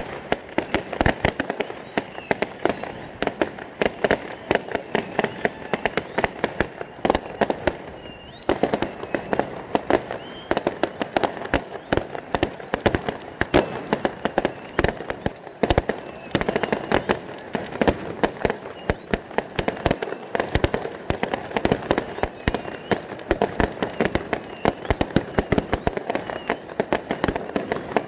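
A continuous fireworks barrage: rapid bangs and crackles, many a second, with hardly a pause.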